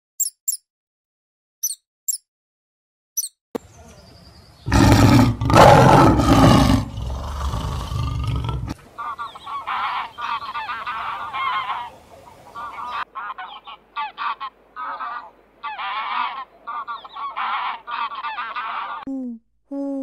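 Canada goose honking in a long run of repeated calls through the second half, after a loud, rough, noisy stretch. A few short high squeaks come at the start, and low falling hoots come right at the end.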